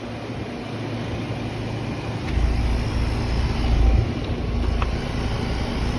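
Outdoor air-conditioner condensing unit running, its compressor humming steadily. Low rumbling swells come through about two to four seconds in.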